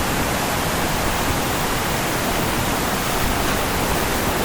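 Waterfall and fast-flowing stream current rushing, a loud, steady wash of water noise with no breaks.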